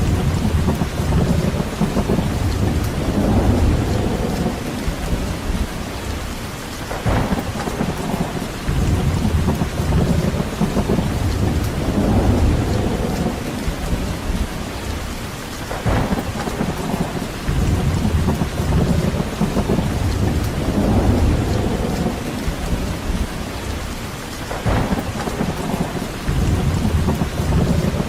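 Steady rain with a deep, low rumble that swells and fades about every nine seconds, each swell ending in a short sharp sound.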